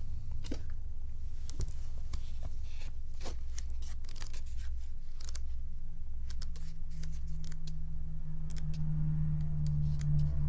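Oracle cards being handled and sorted: scattered light papery clicks and rustles at irregular intervals, over a steady low hum.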